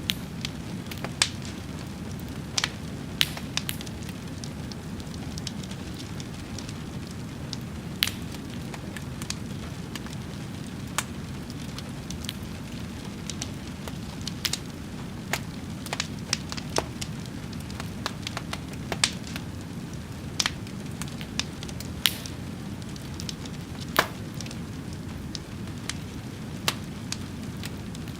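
Wood fire crackling, with irregular sharp pops about once a second over a steady low rushing.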